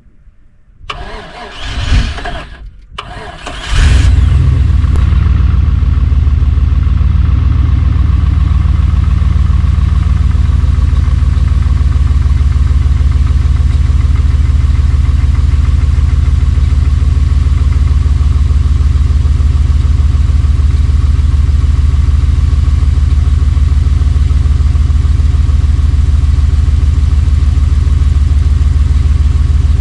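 Mud buggy engine cranking roughly for a couple of seconds, with a short break, then catching about four seconds in and settling into a steady, loud idle. It is a cold start after the buggy sat for months.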